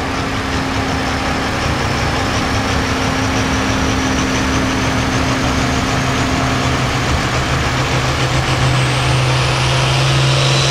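Hot farm class pulling tractor's diesel engine running steadily at low speed. A high whine slowly rises in pitch, and the engine grows a little louder near the end.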